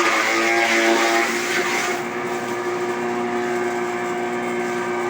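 Silage-making machinery running steadily: a constant drone with a high whine, its pitch wavering briefly in the first second or so.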